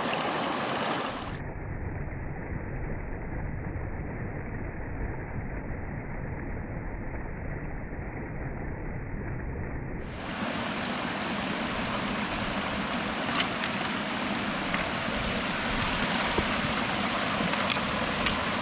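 Steady rushing water of a creek's cascades. For the first ten seconds or so it sounds muffled, with a low rumble, then it turns clearer and brighter.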